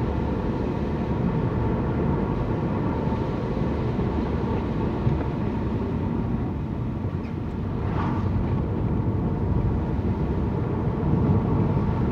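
Car driving, heard from inside the cabin: steady engine and tyre rumble on the road, with a brief sharper sound about eight seconds in.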